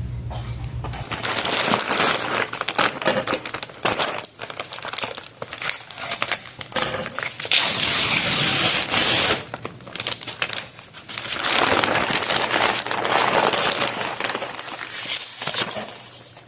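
A package being opened by hand: packaging crinkling and rustling in irregular bursts with clicks, and a longer steady rip about halfway through.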